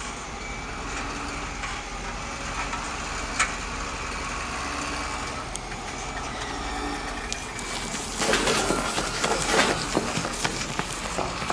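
Small electric motors of a metal RC excavator running steadily, with one sharp click a few seconds in. About eight seconds in, a louder crunching rattle of loose material pours for a couple of seconds, typical of a bucket load being dumped.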